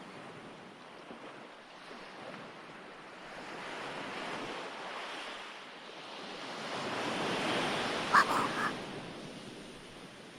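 Recorded ocean surf, with waves washing in as slow swells that build about four seconds in and again around seven seconds. A brief short sound comes about eight seconds in.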